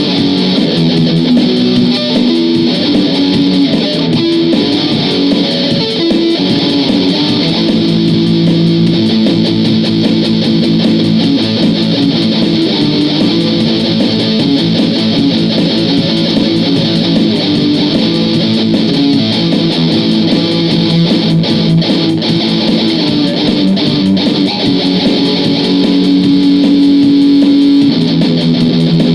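Guitar playing a run of riffs and licks, ending in a long held note near the end.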